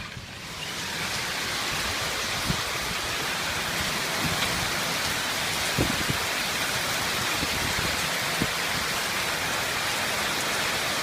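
Heavy rain and strong wind of a storm: a dense, steady hiss that swells over the first second and then holds, with a few faint knocks.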